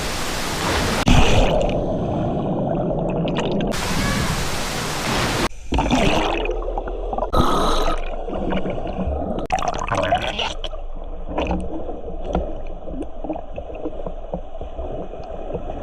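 Waterfall water rushing, switching between a full open-air rush and a muffled gurgling with bubbles: the rush is open for the first second and again briefly around four to five seconds in, and muffled and bubbly the rest of the time.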